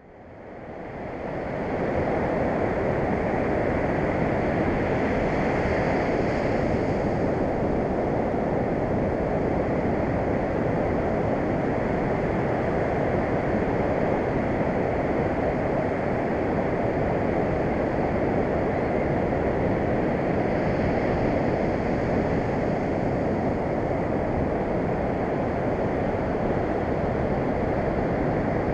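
Ocean surf washing steadily on the beach, with wind noise on the microphone; it fades in over the first two seconds.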